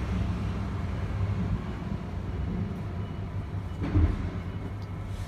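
A large engine idling with a steady low rumble. There is a single thump about four seconds in.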